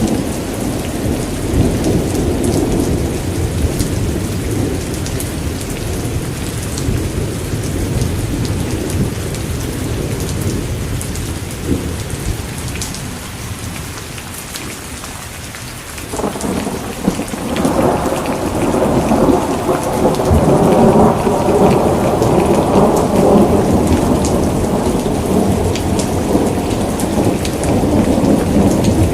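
Steady rain pattering, with rolling thunder rumbling underneath. One roll dies away about halfway through, and a new, louder roll of thunder builds soon after.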